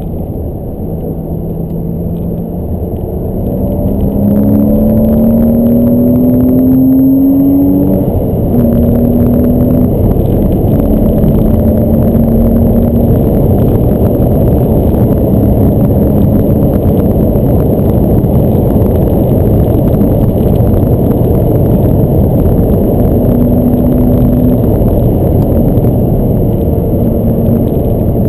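Porsche Boxster S's flat-six engine heard from inside the closed cabin under hard acceleration. Its note climbs steadily for about five seconds, drops at an upshift about eight seconds in, then runs on at high revs over constant tyre and road noise.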